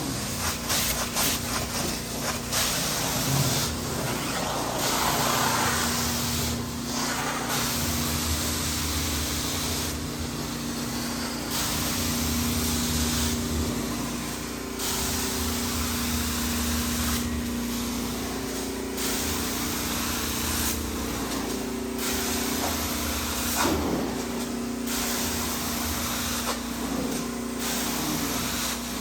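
Hot-water carpet extractor wand making repeated cleaning strokes: a loud hissing of spray and suction that breaks off and starts again about every two to three seconds, over the steady hum of the machine.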